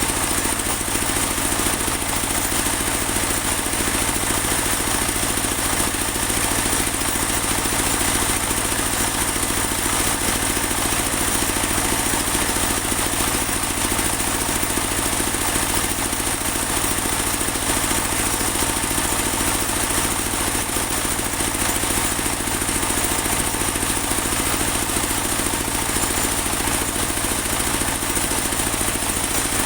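Engine of a portable bandsaw sawmill running steadily, with a constant high whine over the motor hum.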